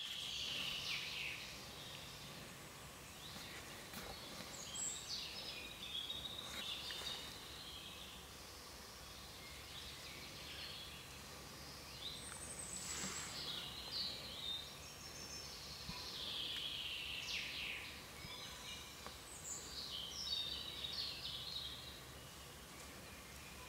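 Songbirds singing in woodland: short high whistled and chirping phrases that come and go, over a steady faint background hiss.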